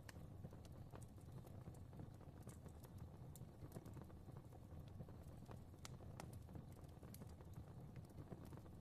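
Fireplace fire crackling softly: irregular faint pops and snaps, a couple a second, over a low steady rumble of flame.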